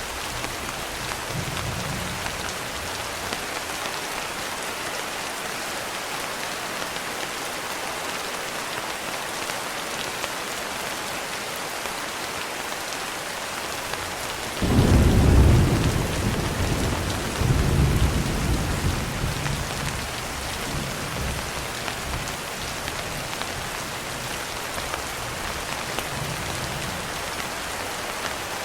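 Steady rain hissing, with a roll of thunder that breaks in suddenly about halfway, swells a second time and rumbles away over several seconds; a fainter low rumble comes near the start.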